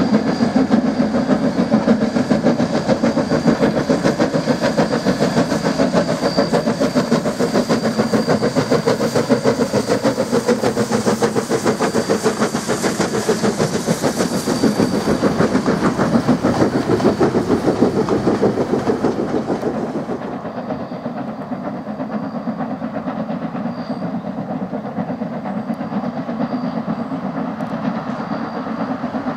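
A 428, a 1909-built 4-6-2 Pacific steam locomotive, chuffing with rapid, even exhaust beats as it hauls its carriages. About two-thirds of the way through, the sound turns quieter and duller.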